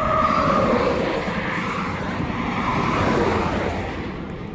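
Highway traffic going past at speed: a rush of tyre and engine noise that swells and fades, its pitch falling slightly as it passes.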